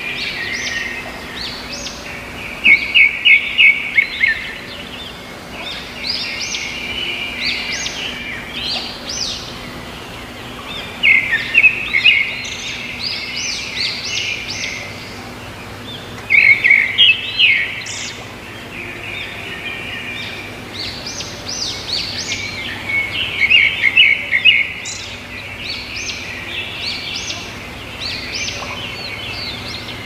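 Small songbirds chirping and trilling in quick runs of notes, with louder bouts every several seconds, over a steady background hiss.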